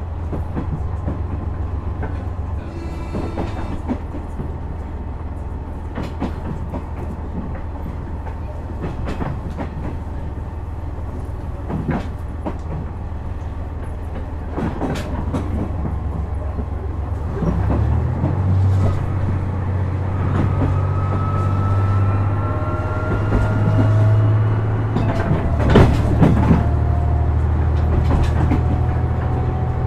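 KiHa 126 series diesel railcar running, heard on board: a steady low diesel engine drone with irregular rail-joint clicks. About two-thirds through, the engine note changes and gets louder, and a faint rising whine comes in above it.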